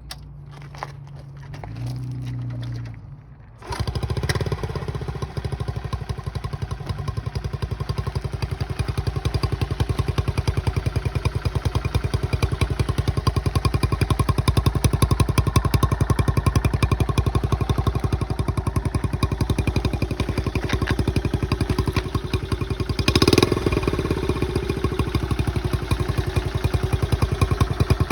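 A 1970 Honda CT70's 72cc four-stroke single-cylinder engine, cold-started: a few clicks and a short hum, then it catches about four seconds in and runs with a steady rapid beat. It briefly rises in pitch and loudness about three-quarters of the way through.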